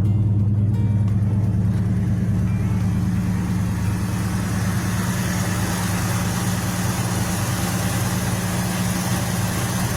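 Ford 351 Windsor V8 in a 1971 Ranchero running steadily with a low, even drone, and a rushing noise building from about two seconds in.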